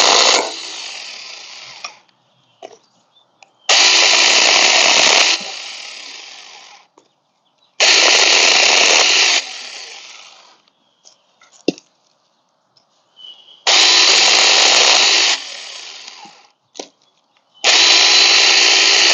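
Cordless 21V mini chainsaw (Tomyvic 6-inch) cutting branch pieces in short bursts: the motor and chain run hard for about a second and a half, then spin down after the trigger is let go. This happens four times, with a few light knocks between the cuts.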